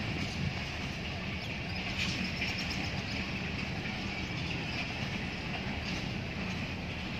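Passenger train coaches rolling along the track, a steady running noise of wheels on rails.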